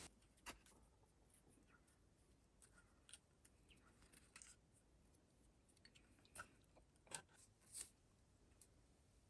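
Near silence with a few faint, scattered clicks and taps, about half a second in and then several more from three to eight seconds in.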